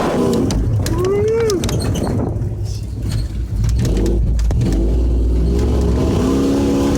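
Ford 4x4 truck engine rumbling low as the truck crawls over the railway tracks, with scattered knocks and clatter. A short rising-and-falling call rings out about a second in.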